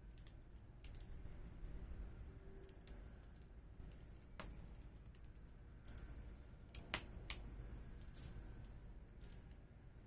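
Wood fire crackling faintly, with scattered sharp pops and snaps. The loudest come about four and a half and seven seconds in.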